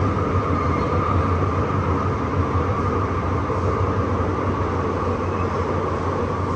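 MTR M-Train electric multiple unit running along the track, heard from inside the car: a steady rumble with a constant higher whine.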